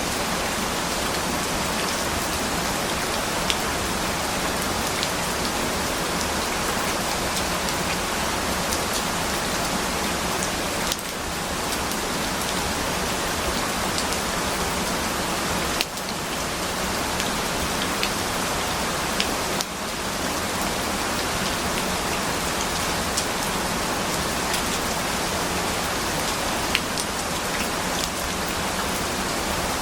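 Steady rain falling on a surface: a dense, even hiss with scattered sharp drop ticks, briefly dipping in level three times near the middle.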